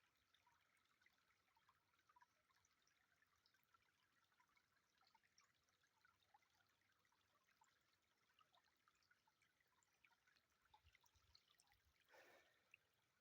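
Very faint trickle of a small stream, with scattered tiny drips and splashes; a brief faint rustle about twelve seconds in.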